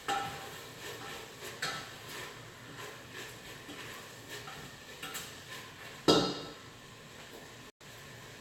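Kitchen clatter: a few separate clinks and knocks of pots, pans and utensils, the loudest knock about six seconds in.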